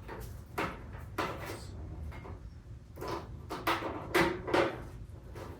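A series of short knocks and clatters of hard objects being handled and set down, about six in all, the loudest a pair near the end, over a faint steady low hum.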